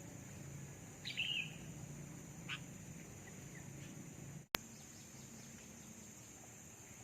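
A bird chirps once sharply about a second in, then gives a fainter short call and a few faint chirps over a steady high-pitched background drone near rice fields. A sharp click with a brief dropout comes a little after halfway.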